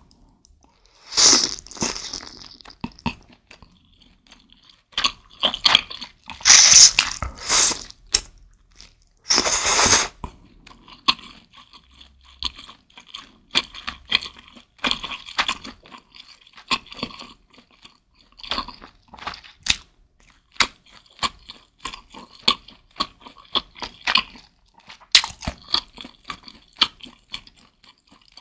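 Close-miked chewing of a mouthful of thin-sliced beef and noodles in spicy soup, with wet mouth sounds. There are a few louder, longer wet sounds in the first ten seconds, then steady soft chewing clicks.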